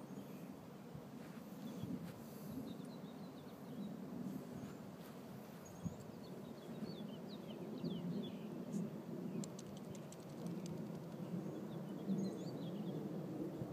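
Small birds chirping in short scattered calls over a steady low background rumble.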